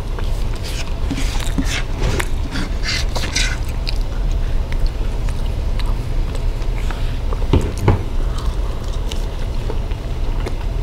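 Close-miked eating sounds: chewing with wet mouth clicks and lip smacks as rice and longganisa sausage are eaten by hand, busiest in the first few seconds, with a couple of low thumps partway through. A steady low hum lies under it all.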